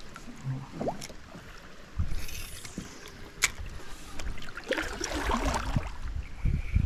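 Water splashing and sloshing around a kayak, with a sharp click about three and a half seconds in and a low rumble from about two seconds in.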